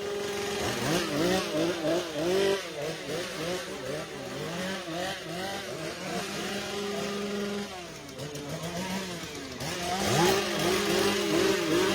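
Two-stroke chainsaw engine revved in rapid throttle blips, its pitch jumping up and falling back a few times a second, settling to a steady high idle in between.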